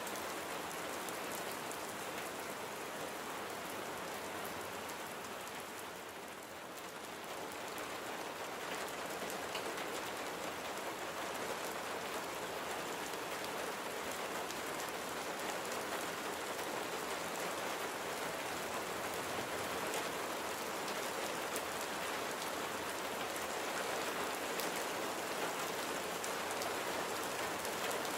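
Steady rain falling and pattering on surfaces, a dense hiss of drops that eases briefly about six seconds in and then grows a little heavier.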